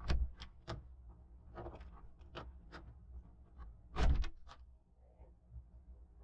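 A string of light clicks and knocks inside a truck-bed camper, with a heavier thump about four seconds in.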